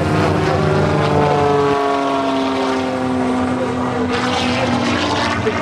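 Propeller airplane engine passing by, its pitch falling slowly and steadily as it goes past.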